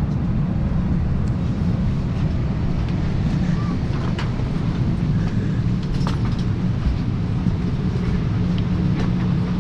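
Steady low rumble from inside a moving vehicle, with a few faint clicks.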